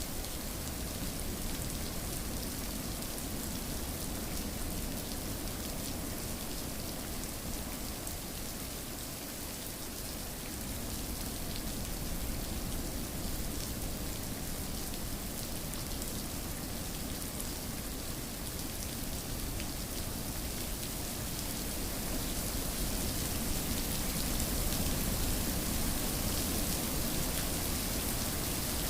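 Steady rainfall, an even hiss of drops falling on surfaces, growing slightly louder near the end.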